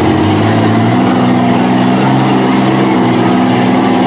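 Engines of demolition derby mini trucks running hard, their pitch stepping up and down as the drivers rev while pushing and backing in the arena.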